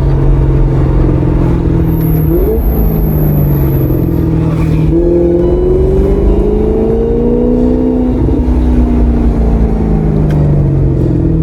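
Maserati GranTurismo's V8 engine and exhaust running under way with a deep, steady drone. About halfway through the pitch climbs gradually as the car picks up speed, then falls away again near the end.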